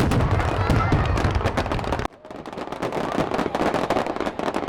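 Fireworks display: a dense volley of crackling bursts over deep booms. It cuts off abruptly about two seconds in, and another stretch of rapid crackling bursts follows.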